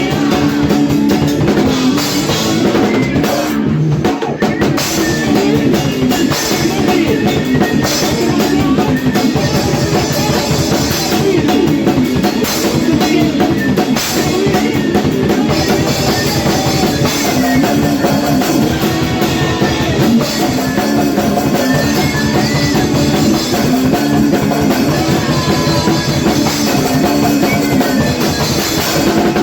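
Hardcore punk band playing live with an 80s-style riff: distorted electric guitar, bass and a driving drum kit, with no vocals. There is a brief dip in the sound a little before four seconds in.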